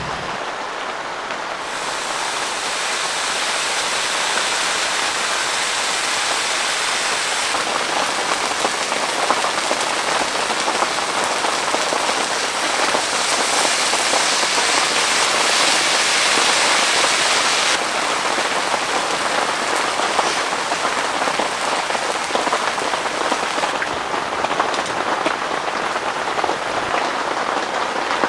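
Heavy rain pouring steadily, a dense patter of drops with no letup. Its brightness shifts abruptly a few times, at about 2, 8, 18 and 24 seconds in.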